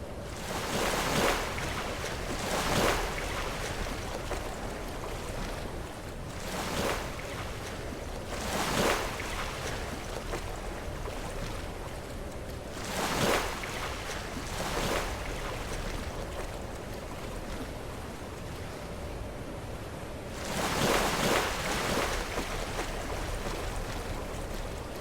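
Sea waves breaking against rocks, each surge a short rush of noise coming every few seconds, irregularly, over a steady low rumble of surf.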